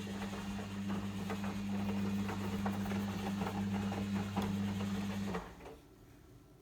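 Logik L712WM23 washing machine running with a steady low hum and a patter of small rattles and clicks. The hum cuts off suddenly about five seconds in.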